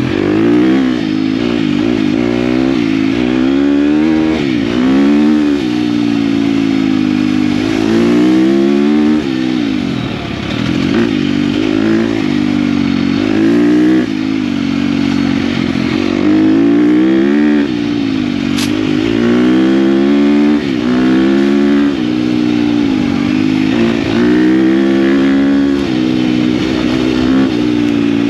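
KTM dirt bike engine being ridden hard, its revs climbing and dropping again and again through the gears and throttle changes.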